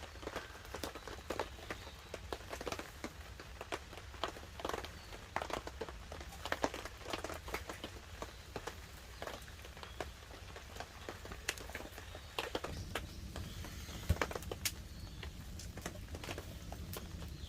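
Wood campfire crackling with irregular sharp pops, over light rain pattering on a tarp overhead.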